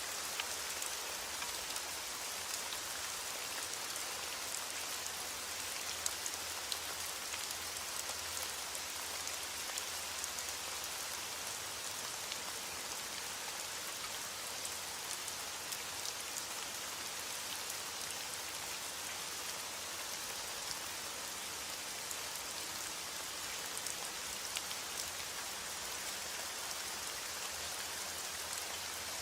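Steady rain falling: an even hiss made of many small drop impacts, unchanging throughout.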